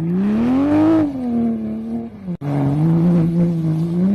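Car engine revving hard: its pitch climbs for about a second and falls back. After an abrupt cut, a steady engine note holds and rises again near the end.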